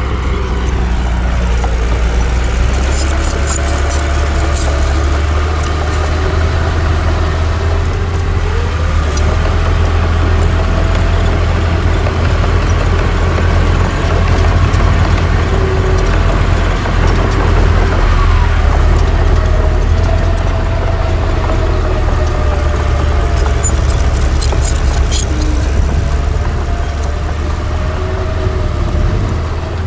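Heavy diesel earthmoving machinery running with a deep steady rumble, the engine pitch rising and falling slowly as it works. A few light clicks come about three seconds in and again near the end.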